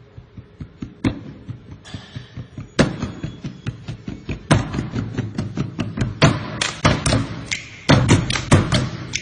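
A run of sharp taps and thumps with a musical beat under them. They are sparse at first, then come faster and louder from about halfway through.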